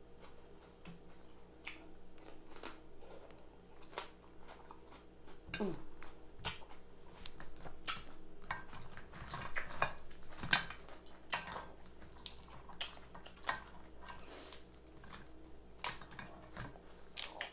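Close-miked eating: wet chewing, slurping and lip-smacking, with many irregular sharp clicks, busiest in the middle stretch.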